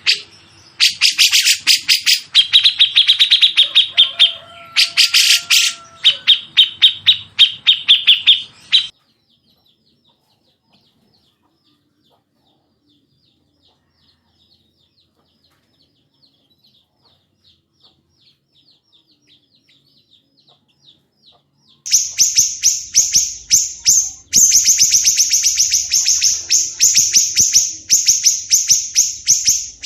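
Recorded songbirds calling in fast runs of sharp repeated notes. Then follows a long stretch of near-quiet with only faint ticks. Near the end a loud, rapid, harsh series of higher notes starts.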